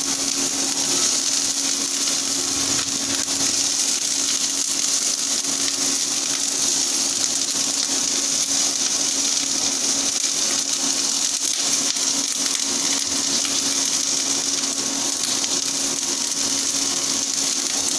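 Chopped onions sizzling steadily in hot oil in a steel kadai on an induction cooktop, with a steady high hiss over a constant low hum.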